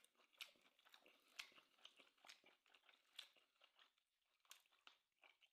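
Faint close-up chewing of steak: an irregular run of soft wet clicks and smacks from a mouth eating.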